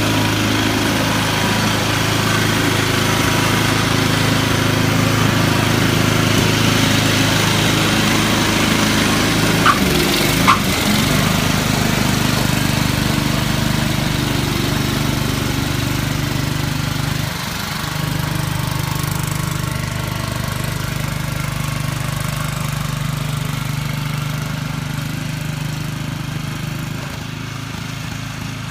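A small engine running steadily, its pitch dropping a little about ten seconds in and again near the middle, with two short sharp clicks about ten seconds in.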